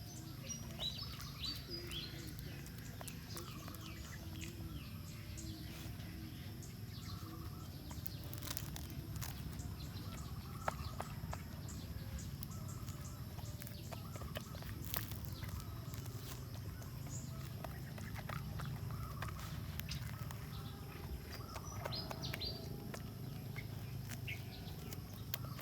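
Small birds chirping now and then over a steady low outdoor rumble, with scattered sharp clicks in the middle.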